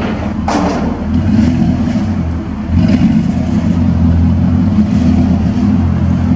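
Pickup truck's engine and exhaust running as it drives, a steady low drone that grows louder about three seconds in as it pulls harder.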